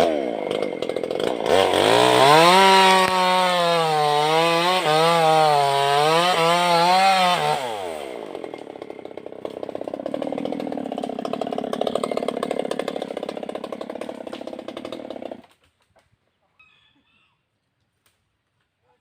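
Maestro two-stroke chainsaw revved up to full throttle about a second and a half in, its pitch wavering and dipping a few times, then dropping back to idle. It idles for several seconds and is switched off near the end, stopping suddenly.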